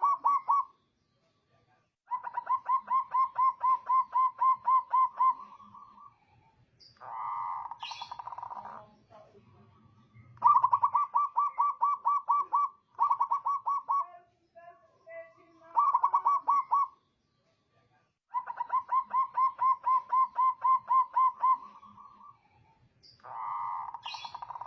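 Zebra dove (perkutut) cooing in repeated phrases of quick staccato notes, about four a second, each phrase lasting one to three seconds with short pauses between. Twice a shorter, rougher phrase comes between the runs.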